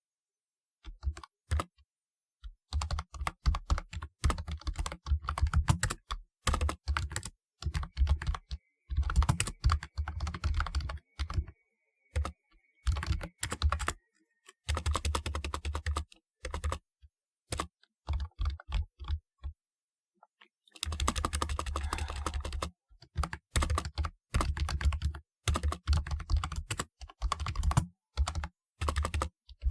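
Typing on a typewriter-style keyboard: runs of rapid key clicks in bursts, broken by short pauses, with a pause of about two seconds two-thirds of the way in.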